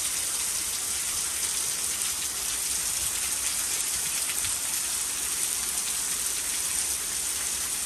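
Heavy rain falling steadily as a continuous hiss, with water pouring off the edge of a porch roof and splashing onto the lawn.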